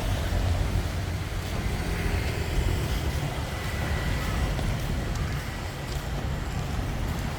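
Street traffic passing on a busy road: a steady low rumble of engines and tyres, with a faint high whine for a few seconds in the middle.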